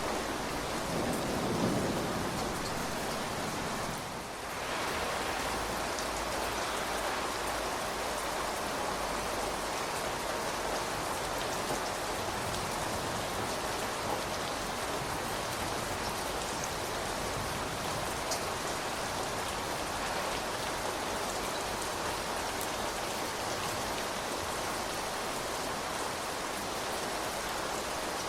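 Steady rain falling, an even hiss of drops hitting surfaces, with a brief low swell about a second in and a short dip in level around four seconds in.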